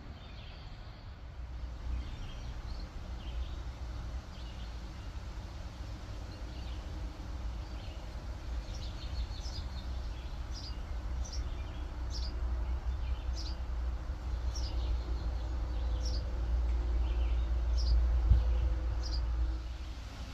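A bird calling over and over from about halfway through, short high chirps about once a second, over a steady low rumble that grows louder toward the end.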